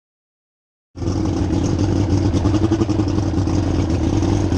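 After about a second of silence, an engine starts running steadily with a low hum.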